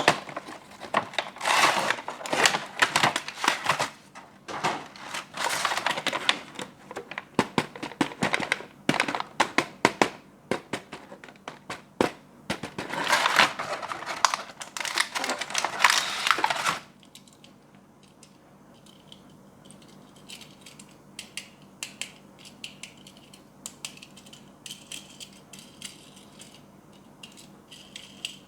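Plastic and cardboard toy packaging crinkling and crackling as it is handled and opened, in loud bursts for about the first two-thirds. After that come quieter light clicks and taps.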